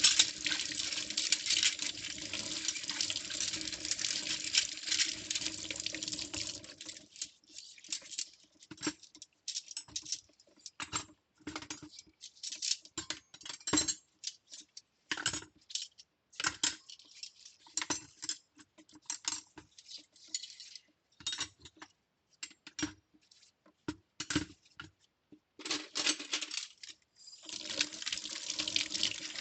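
Kitchen tap running into a sink, shut off after about seven seconds. Then scattered light clinks and clatters of metal cutlery being handled and washed, until the tap runs again near the end.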